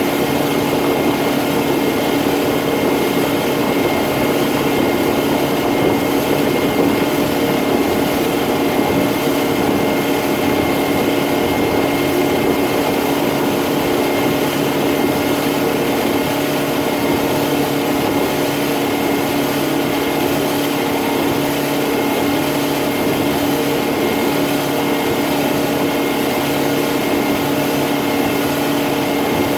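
Boat motor running steadily at cruising speed, a constant engine drone over a steady rushing hiss.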